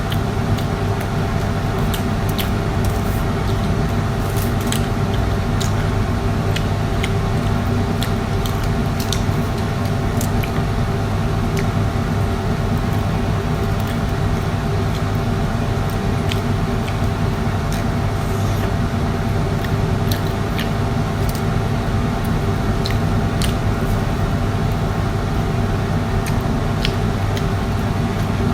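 A steady machine hum with a constant tone, with scattered small clicks and smacks of prawns being eaten by hand.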